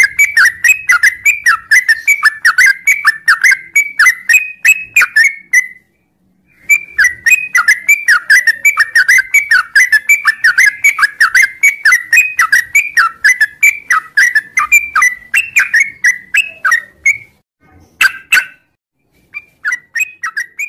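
Sooty-headed bulbul (trucuk) singing a long, rapid run of short whistled notes, about six a second, its continuous ngropel song. The song pauses briefly about six seconds in, stops again after about 17 seconds, then returns as a short burst and a few scattered notes.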